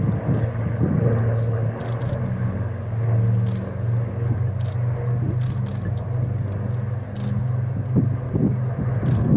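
An engine running steadily: a low drone with a steady hum.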